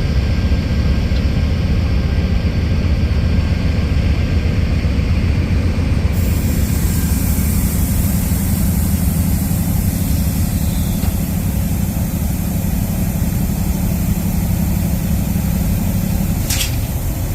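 Diesel locomotive engine running steadily at idle, a low rumble. A short hiss comes near the end.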